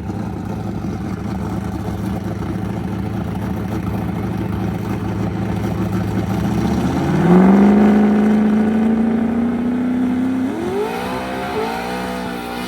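A car engine idling, then about seven seconds in it revs up and holds at high revs as the car accelerates hard. A second rising rev follows near the end.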